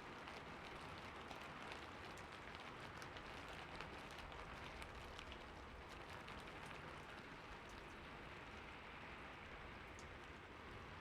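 Steady rain falling on a roof: an even patter with many small drop ticks.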